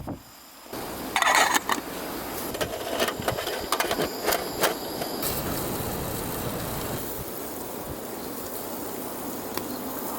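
Strong wind blowing steadily, with a run of sharp clicks and knocks in the first half, loudest from about one to five seconds in.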